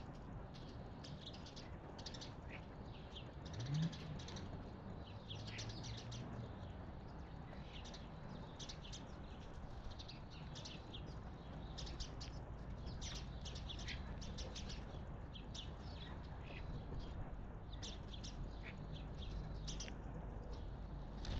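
Small birds chirping, with many short high calls in quick succession throughout, over a low steady rumble. A brief low rising sound comes about four seconds in.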